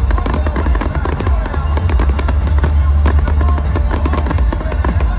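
Fireworks banging and crackling continuously over loud show music with a heavy bass.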